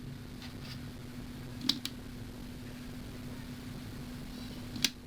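Steady low hum with sharp clicks from hot-staple plastic welding on a cracked motorcycle fairing: two clicks close together about a second and a half in, and one more near the end.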